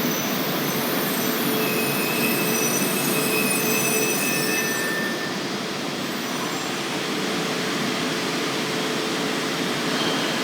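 Shinkansen train running along the station platform: a loud, steady rush of wheel and air noise with faint high squealing tones over it.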